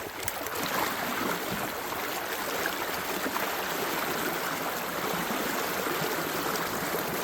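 Creek water running over rocks, a steady even rush and trickle.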